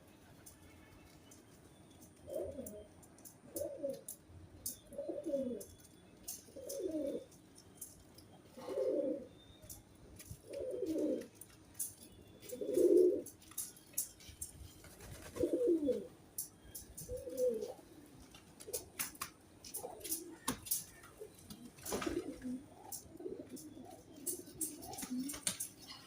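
Pigeons cooing: a series of low coos about every one to two seconds from about two seconds in, coming closer together and overlapping in the last several seconds, with light sharp clicks scattered throughout.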